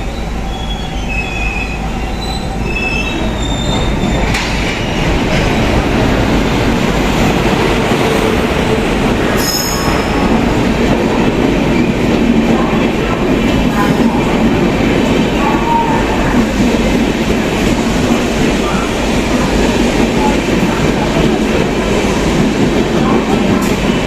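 The Sealdah Rajdhani Express train running on the track: a dense, continuous rumble of wheels and carriages that grows louder over the first five seconds and then holds steady. A few short high squeaks are heard in the first few seconds.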